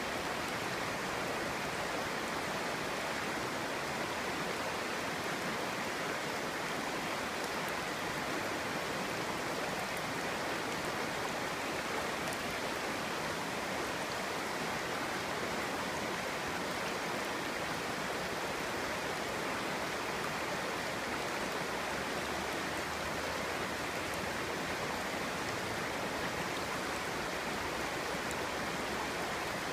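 Clear stream babbling over rocks: a steady rushing and burbling of water.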